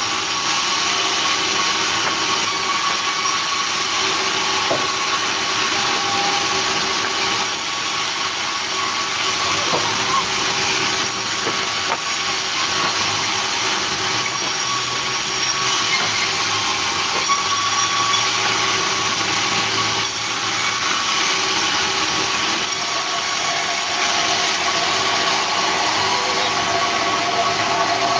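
Sawmill machinery running steadily: a continuous mechanical drone with a faint, constant whine.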